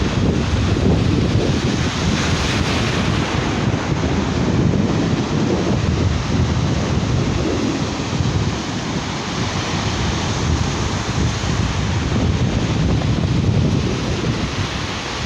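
Sea surf washing onto a beach, heard as a continuous rushing noise, with wind buffeting the microphone and adding a fluctuating low rumble.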